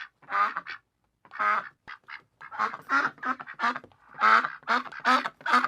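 Duck quacking over and over, a series of short nasal quacks in quick clusters.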